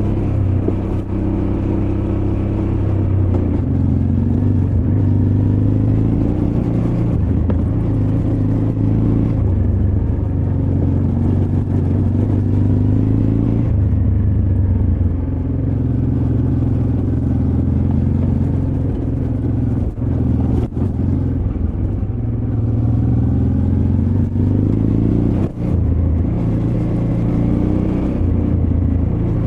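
Honda Transalp XL600V's V-twin engine pulling over rough ground, its pitch rising and falling again and again as the throttle opens and closes. A few short sharp knocks stand out. The engine is heard through a recorder carried in the rider's backpack.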